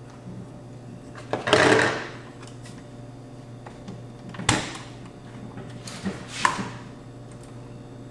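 Hand tools prying a circuit card out of an AV receiver's sheet-metal frame. There is a scraping rattle about a second and a half in, a sharp click about four and a half seconds in, and another click and scrape near the six-second mark, over a steady low hum.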